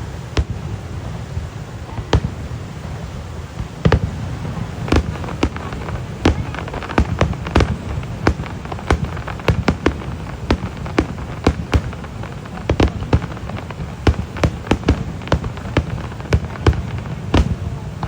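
Fireworks going off: a string of sharp bangs and pops at irregular intervals, coming thicker and faster from about six seconds in, over a steady low rumble.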